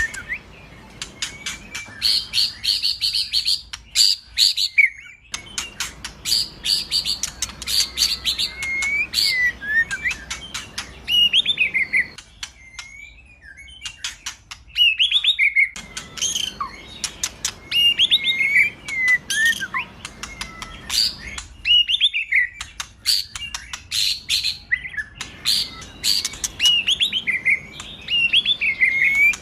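White-rumped shama (murai batu) singing: loud, varied phrases of whistles that slide up and down, mixed with rapid runs of sharp, dry ticks and chattering trills. The song breaks off briefly twice, about twelve and twenty-two seconds in.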